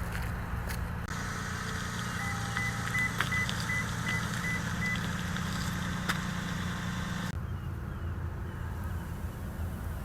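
A car's electronic warning chime beeping in a series of short, evenly spaced high tones, about three a second for roughly three seconds, over a steady low hum.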